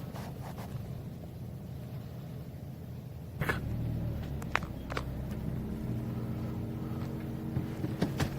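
Car engine running at idle, heard from inside the cabin as a steady low hum that gains a steadier pitched tone about halfway through, with a few sharp clicks and knocks.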